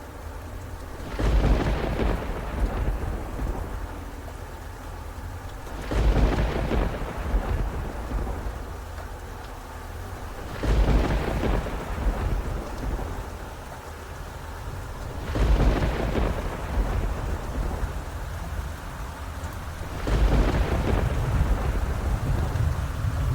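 Thunderstorm: steady rainfall, with five rolls of thunder about every four to five seconds. Each roll starts suddenly and rumbles away over a few seconds.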